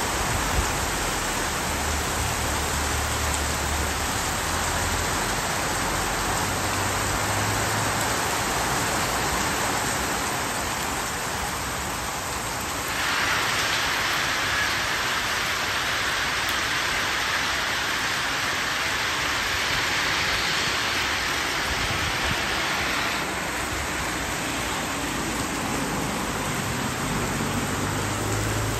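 Heavy rain falling steadily, a dense hiss that turns brighter and slightly louder for about ten seconds midway. Near the end the low hum of a small truck's engine comes in as it drives past on the wet road.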